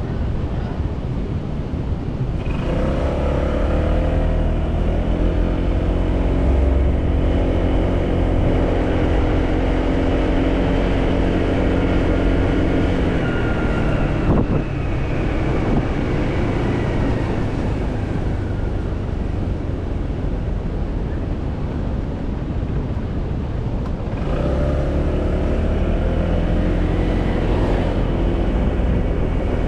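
Motorcycle engine running under way with road and wind noise. It pulls harder about two seconds in, its pitch falls as it eases off around the middle with a brief click, and it pulls again near the end.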